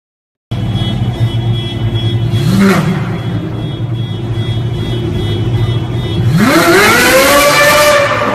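Car engine running at a steady idle, then revving up hard about six seconds in, its pitch climbing steeply and holding high.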